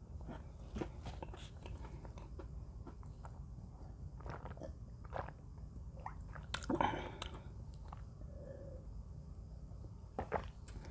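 Mini Oreo cookies being bitten and chewed close to the microphone: irregular crisp crunches, with one louder crunch about seven seconds in.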